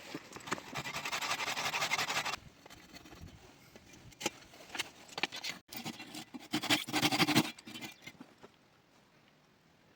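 Scratchy scraping and rubbing noises with a few sharp knocks, in two stretches: one for the first couple of seconds and another about two-thirds of the way through, then near quiet.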